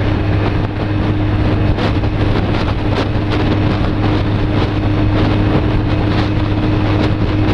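Honda CB250 Nighthawk's parallel-twin engine held at high revs at a steady pitch at about 60 mph, with wind rushing over the microphone.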